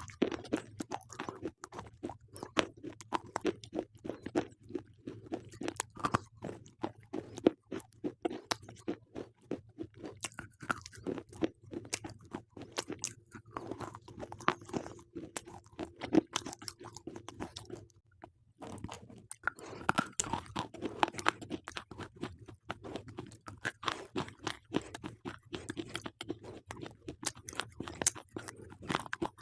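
Close-up crunching and chewing of slate pencils: a dense run of sharp, brittle cracks and grinding, with a short pause a little past the middle.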